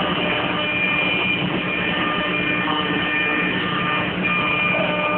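Anderson dual-zone CNC router running steadily while machining plywood: an even mechanical noise with a low hum and several high whining tones, some of which come and go.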